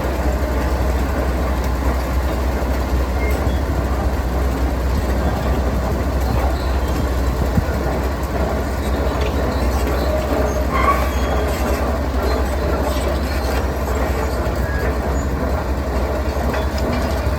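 Heavy diesel construction machinery running steadily with a deep, even rumble, with a few faint clanks in the middle.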